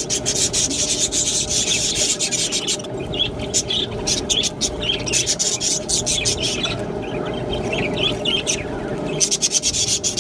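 Budgerigars chattering and warbling: rapid chirps and scratchy rasping notes, with a steady hum underneath.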